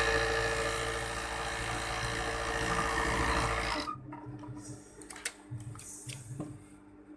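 Overdeck (coverstitch) sewing machine running steadily at speed, stopping abruptly about four seconds in, followed by a few light clicks.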